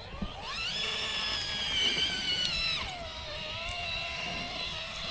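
An RC rock crawler's electric motor whines, rising in pitch as the throttle opens and holding high for about two seconds. A little under three seconds in it drops to a lower, steady whine.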